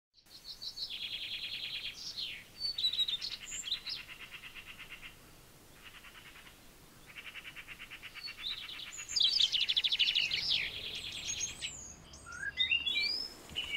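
Songbirds singing in rapid, repeated trills, with whistled notes and sliding calls in between.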